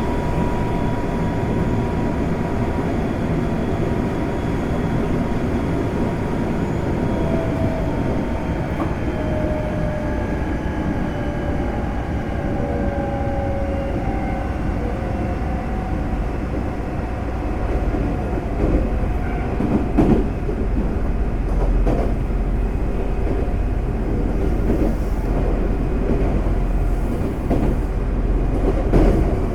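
Semboku Rapid Railway 5000 series electric train, with its Hitachi GTO VVVF inverter, running at speed as heard inside the passenger car: a steady rumble of wheels on rail with faint tones that slowly fall in pitch. A few short clicks from rail joints come in the second half.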